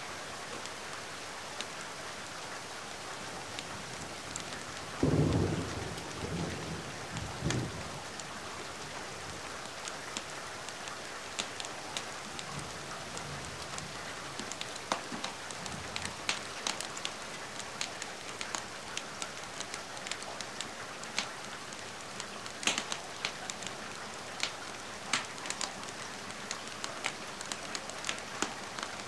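Steady rain with a low rumble of thunder about five seconds in, lasting a few seconds. Scattered sharp crackles and pops from a wood fire in a fireplace run through it.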